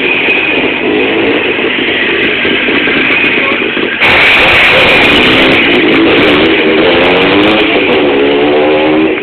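Jawa motorcycle engine running and revving, its pitch rising and falling. It gets suddenly louder about four seconds in.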